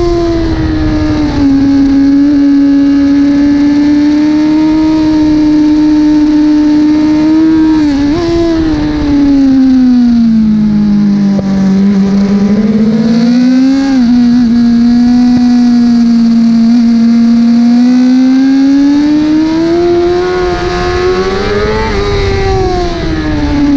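A 1000 cc superbike engine running hard at high revs, its pitch holding steady, then falling as it slows and climbing again as it accelerates. There are brief blips about eight and fourteen seconds in, and the pitch falls away near the end.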